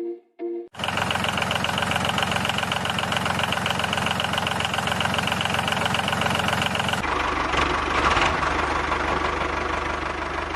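Mini toy diesel engine running with a fast, even knocking chatter; about seven seconds in, the sound shifts lower and rougher. A few short piano-like music notes end just under a second in.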